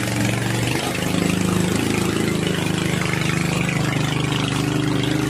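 A small engine idling steadily with an even, regular beat.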